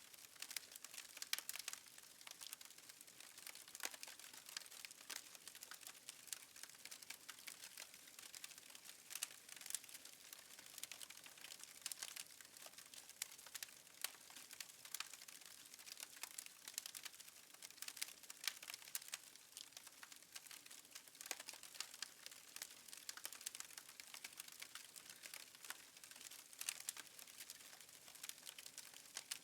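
Wood fire crackling faintly in a fireplace, with frequent irregular small pops and snaps.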